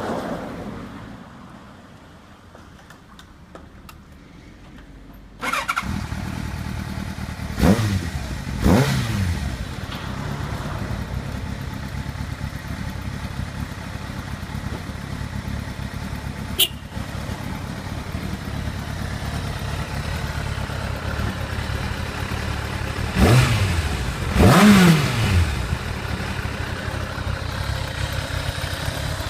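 Kawasaki ZZR1200's inline-four engine starts about five seconds in and settles into a steady idle. Its revs are blipped up and back down twice in quick succession shortly after it starts, and twice again near the end.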